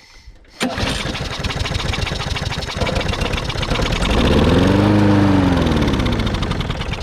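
Cold lawn mower engine, with propane from a torch blown into its intake, catches on a pull-start about half a second in and keeps running. Its speed rises and then falls again between about four and six seconds in, where it is loudest.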